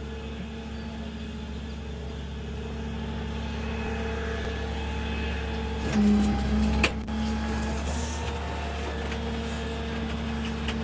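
Tow truck running with a steady low mechanical hum. It swells briefly about six seconds in, and there is a short sharp click just after.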